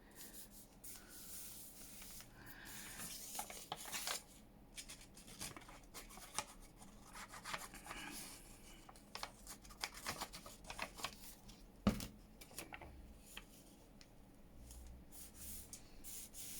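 Paper rustling and being rubbed and smoothed by hand, with scattered small taps and one sharp knock about twelve seconds in.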